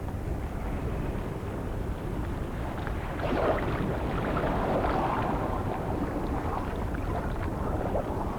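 Rushing noise of sea and wind, such as surf on a rocky coast, swelling for a few seconds around the middle.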